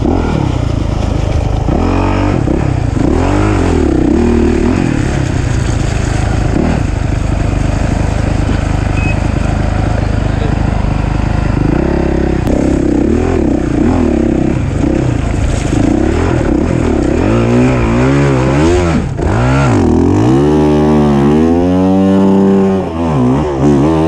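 Off-road racing motorcycle engine running hard, its pitch rising and falling as it revs up and eases off over and over, with a run of quick rev swells near the end.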